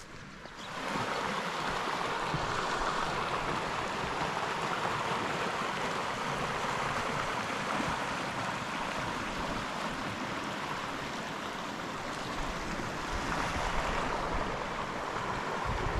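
Brodribb River running: a steady rush of flowing water that starts under a second in and holds at an even level.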